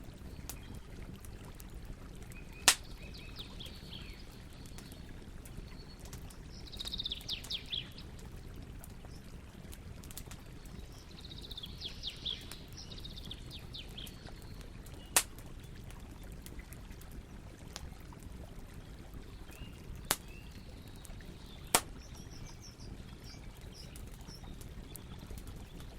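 Campfire burning with a steady low crackle and a few sharp wood pops, one about three seconds in and others near 15, 20 and 22 seconds. Birds sing briefly in the background several times.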